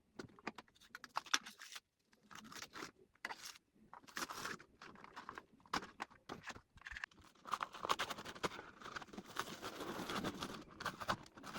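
Old wallpaper being scraped and torn off a wall: irregular scratching, crackling and short rips, busier in the second half.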